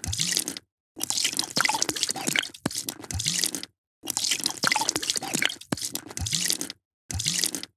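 A drink being poured, splashing and gurgling with low glugs, in stretches of two to three seconds that each cut off abruptly to silence before the next pour starts.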